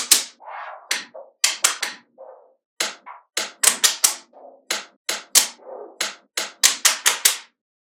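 Small magnetic balls snapping together one after another in sharp clicks at an irregular pace, with softer rattling of the balls shifting between the snaps.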